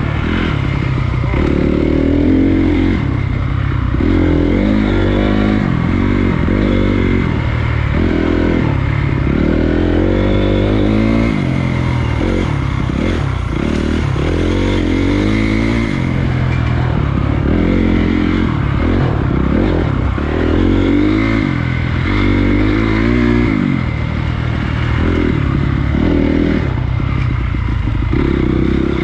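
Honda CRF250 dirt bike's single-cylinder four-stroke engine under way on a trail, its pitch rising and falling over and over as the rider works the throttle and gears.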